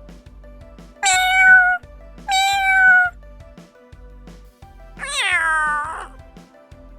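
Domestic cat meowing three times, each meow about a second long, the last one sliding down in pitch, over background music with a steady beat.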